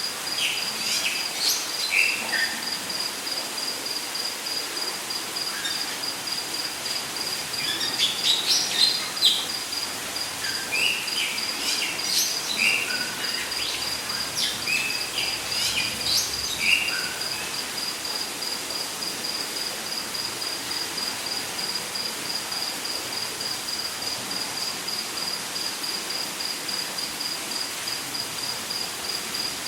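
Rainforest ambience: an insect trills in an even run of rapid pulses on one high note, while birds give short chirps and calls, clustered in the first half, over a steady hiss.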